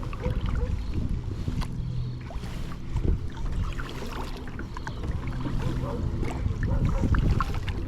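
Kayak paddling: small splashes and drips of water from the paddle and along the hull over a low rumble. A faint low hum comes and goes twice.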